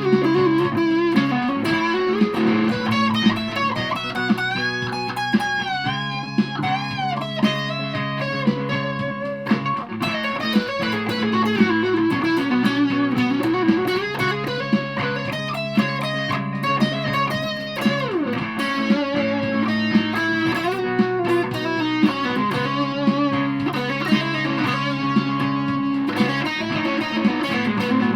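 Aria Pro II Thor Sound electric guitar played through a Joyous Dream super fuzz pedal: a sustained lead line with pitch bends. Beneath it run held low chords that change every few seconds and a steady beat of about one hit a second.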